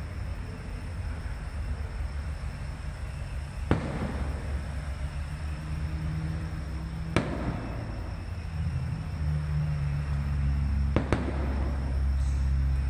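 Aerial fireworks bursting: three sharp bangs about three and a half seconds apart, over continuous crackling and a low rumble.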